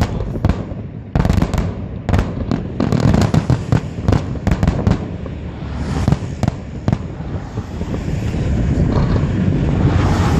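Aerial fireworks exploding: rapid volleys of sharp bangs and crackles for the first seven seconds or so, over a continuous rumble that grows denser toward the end.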